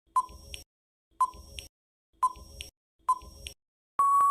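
Quiz countdown timer sound effect: four short beeping ticks about once a second, then a longer steady beep starting near the end that signals time is up.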